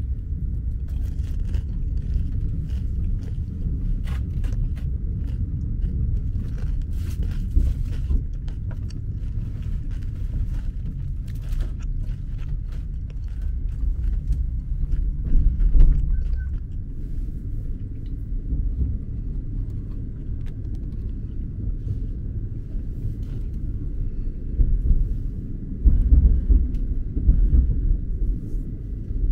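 Steady low rumble of a sleeper train running along the track, heard from inside the cabin, with faint scattered clicks and knocks. The rumble swells louder briefly around the middle and again near the end.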